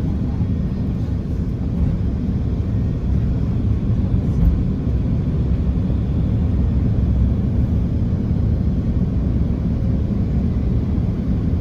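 Steady low rumble of an Airbus A330-300 airliner cabin, the engine and cabin noise heard from a passenger seat.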